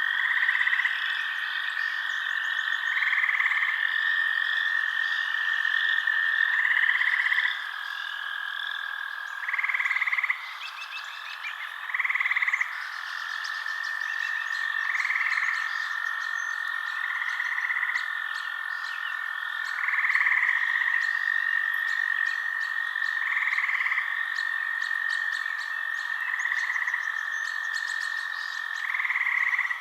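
Night chorus of frogs: a steady high trill with short, louder croaking calls recurring about every two to three seconds, and fine rapid chirping above.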